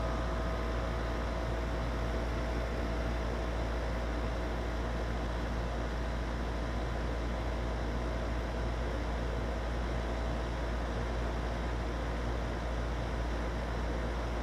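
Goodman 13 SEER R410A air-conditioner condensing unit running steadily, compressor and condenser fan, with a constant low hum under an even whooshing noise, while it is being charged with refrigerant.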